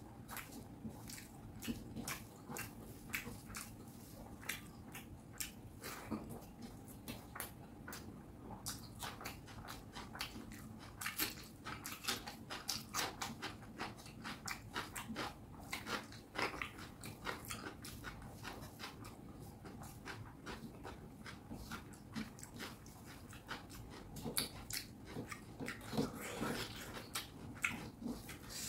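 A person chewing mouthfuls of fish curry and rice close to the microphone: a dense, irregular run of wet mouth clicks and smacks, several a second.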